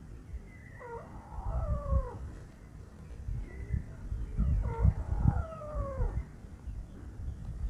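White-browed crake calls: two bouts of nasal, whining notes that glide downward in pitch, the first about a second in and the second about four and a half seconds in, each lasting about a second and a half. A low, uneven rumble runs underneath.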